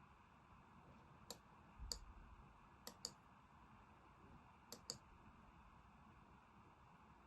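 Faint computer mouse clicks, some single and some in quick pairs, a second or two apart, over low room hiss.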